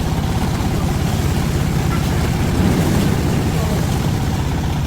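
Engine of a farm vehicle running steadily, with a rapid, even pulsing beat.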